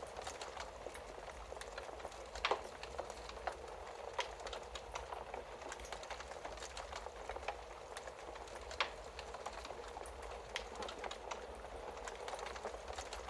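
Wood fire burning in a fireplace: a steady hiss with frequent small crackles and sharper pops, the loudest about two and a half and nine seconds in.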